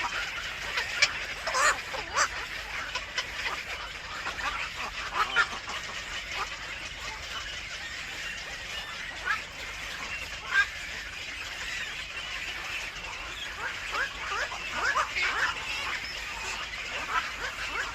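Birds calling at a nest: many short, harsh chirps, some overlapping, thickest in the first few seconds and again near the end, over a steady hiss.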